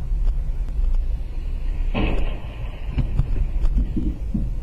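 Car driving, a steady low road and engine rumble, with a short sharp noisy burst about two seconds in.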